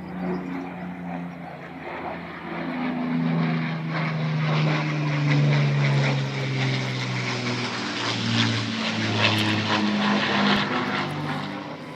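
Piston-engined propeller aircraft flying low overhead: the engine drone grows louder, peaks in the middle, then fades, and the engine note drops in pitch as it passes.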